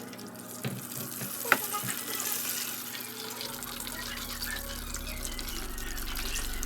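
Kitchen tap running water into a sink, with a couple of light clinks in the first two seconds.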